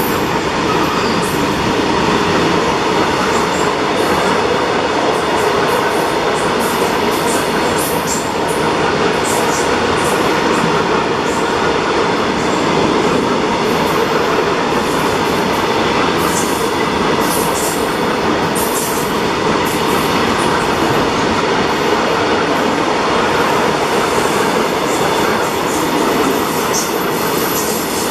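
Freight train of BOXN wagons rolling past: a steady rumble of wheels on rail, with short high-pitched squeals and clicks scattered throughout.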